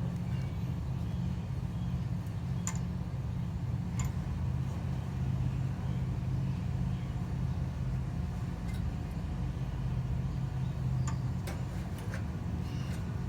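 Steady low mechanical hum, like an idling vehicle, with a few sharp metallic clicks and clinks scattered through it as a rubber muffler hanger is worked onto the exhaust under a car.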